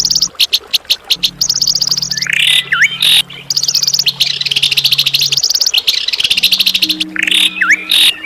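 Songbird singing long, fast trills of rapidly repeated high notes, broken twice by a short, sharp down-and-up whistle, over a steady low hum.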